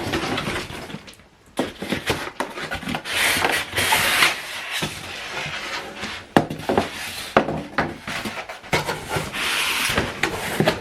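Unboxing handling: cardboard and packing material rubbing and scraping in irregular spells, with light knocks and clicks.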